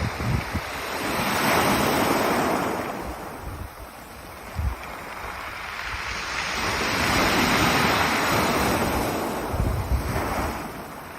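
Ocean waves breaking and washing up a pebble beach, two swells rising and fading in turn, with wind gusts buffeting the microphone.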